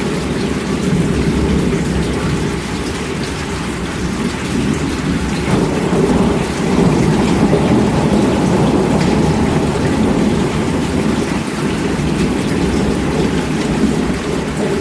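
Steady heavy rain with a low rumble of thunder underneath, swelling a little about halfway through.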